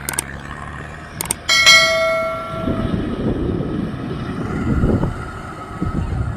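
A few short clicks, then a bell-like ring about a second and a half in that dies away over about a second. After it comes a rough, uneven rumbling noise.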